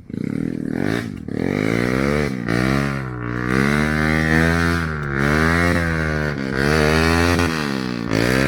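Motorcycle engine revving hard in repeated surges, its pitch rising and falling roughly once a second, as the bike labours up a slippery muddy climb.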